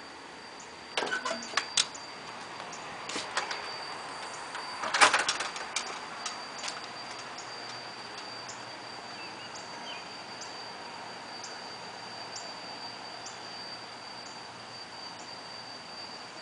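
A vacuum machine running with a steady high-pitched whine and faint ticks about once a second. Over the first six seconds a few bursts of sharp knocks and clatter sound over it, the loudest about five seconds in.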